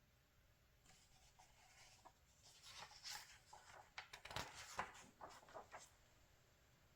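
Magazine page being turned by hand: a faint rustle and crinkle of paper with small clicks, loudest around the middle.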